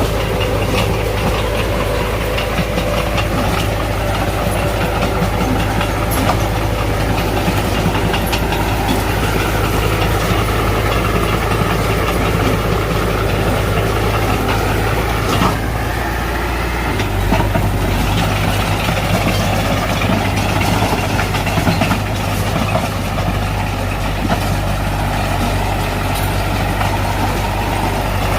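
Diesel engine of a Mitsubishi BD2F crawler bulldozer running steadily under work, with scattered clanks from the machine. The engine note shifts about two-thirds of the way through.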